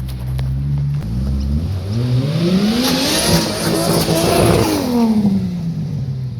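Turbocharged RB30ET straight-six in an R31 Skyline wagon revving hard from a steady low note. The pitch climbs for about three seconds, then falls away, with tyres screeching near the top of the rev as the car is thrown sideways into a drift.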